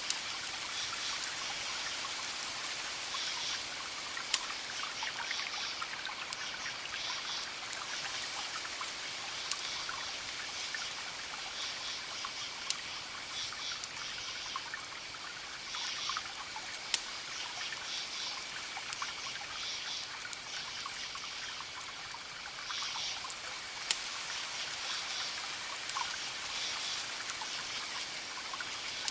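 Campfire crackling with occasional sharp pops, over crickets chirping in repeated pulsed bursts and a steady wash of distant ocean waves.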